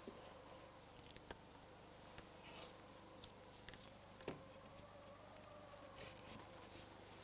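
Near silence: faint background hiss with a faint steady tone and a few scattered soft clicks.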